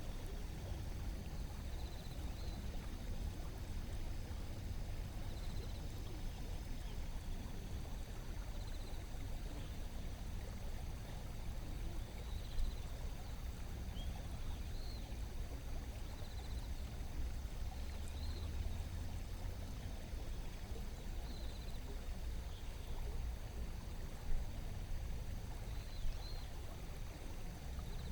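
Shallow river water flowing steadily over stones, a continuous rush of water. Faint short high chirps come every couple of seconds, and there are a few small splashes.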